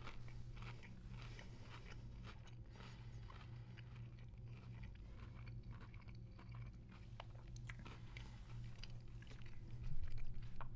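A person chewing a mouthful of battered fried chicken nugget, the crisp breading crunching in short crackles, louder for a moment near the end.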